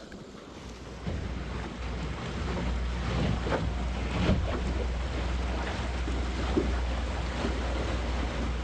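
Water rushing and splashing along the hull of a solar-electric boat under way, with a steady low rumble of wind buffeting the microphone; it grows louder about a second in.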